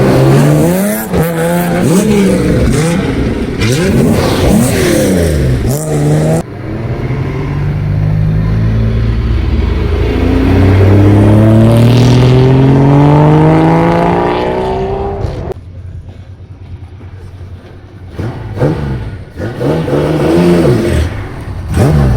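Very loud exhaust of a Nissan C10 'Hakosuka' Skyline being revved: a series of quick throttle blips, then one long steady climb in revs lasting several seconds. It falls back to a lower, steadier note, and more quick blips follow near the end.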